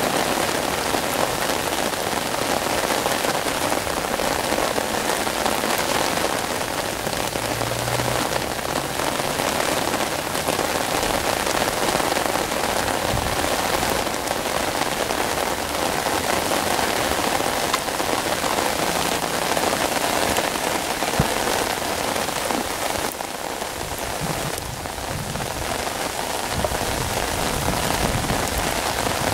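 Rain falling on the surface of a flooded river: a steady hiss of drops pattering on the water.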